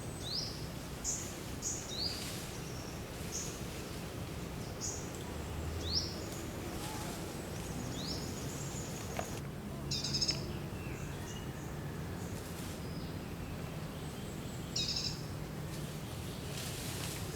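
Birds chirping: short, high, rising calls repeated every second or two, with a brief burst of busier calls about ten seconds in and again near fifteen seconds, over a steady low background hum.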